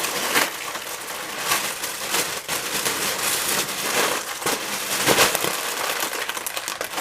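Dense crackling and crunching noise, thick with sharp snaps.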